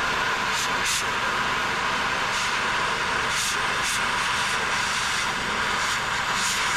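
Gas heating torch burning with a steady, loud rushing hiss while heating metal, with a few brief sharper hisses on top.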